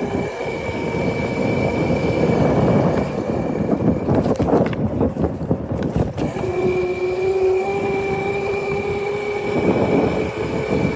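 Motorcycle being ridden, its motor giving a steady whine over road and wind rumble; about six seconds in the whine drops lower, then climbs slowly as it picks up speed.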